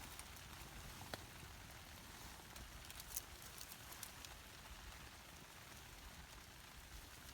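Faint, steady freezing rain pattering, with a few sharp ticks about one and three seconds in.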